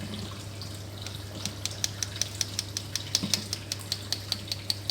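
Rapid light tapping, about six taps a second, starting about one and a half seconds in: an opened medicine capsule being tapped to shake its powder out into a cup of water.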